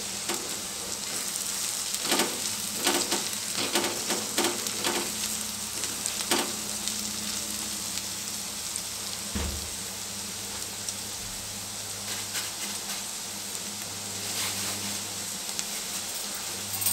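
Soaked moong dal, onions and chillies sizzling steadily in oil in an iron kadai. A silicone spatula stirs and knocks against the pan in a run of scrapes and taps between about two and six seconds in, with a few more near the end.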